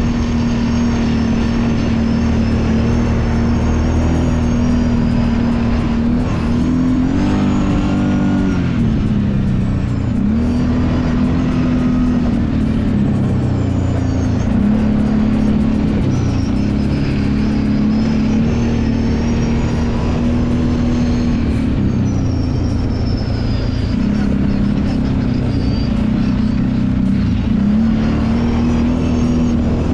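Kawasaki Brute Force 750 ATV's V-twin engine running on the trail. Its pitch rises sharply about a quarter of the way in, then falls and dips several more times as the throttle is eased and reapplied.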